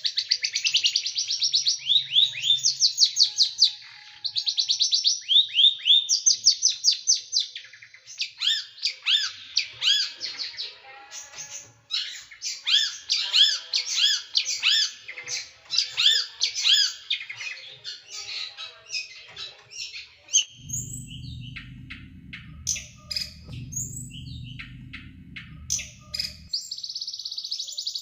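Small songbird singing rapid-fire 'tembakan' phrases: fast runs of sharp, down-slurred notes, several a second, repeated in bursts. About two-thirds of the way through, a low rumble comes in for several seconds while the song thins to scattered chirps, then a dense, fast trill starts near the end.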